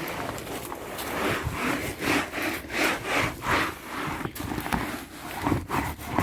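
Back-and-forth rubbing strokes of a surface being wiped or scrubbed clean by hand, a steady rhythm of about two strokes a second.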